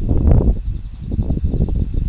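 Typhoon wind buffeting the microphone: a loud, uneven low rumble that surges and dips in gusts.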